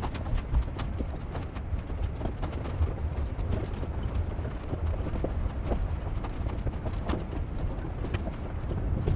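Pickup truck crawling over a rocky trail: irregular clicks and knocks of stones under the tyres over a low, steady rumble.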